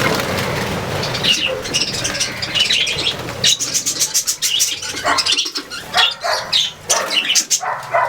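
Birds chirping in short repeated notes, with bursts of wing flapping throughout.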